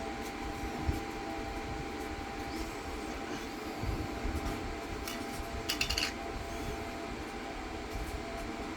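Steady mechanical hum, with a short cluster of light clinks a little under six seconds in, from jars, lids or metal rings being handled.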